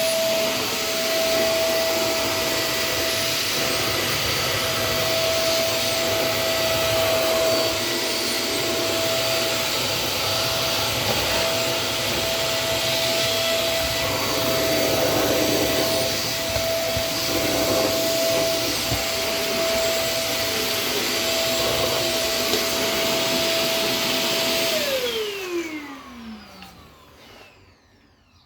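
Electrolux STK15 cordless stick vacuum running steadily with a high motor whine, picking up cat hair from the floor. About 25 s in it is switched off and the whine falls away as the motor spins down.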